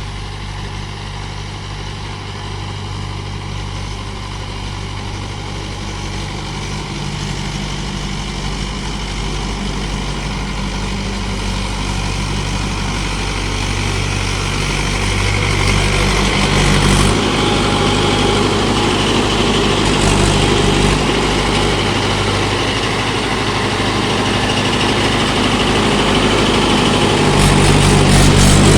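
Mahindra 575 DI XP Plus tractor's four-cylinder diesel engine running steadily, growing gradually louder, loudest near the end.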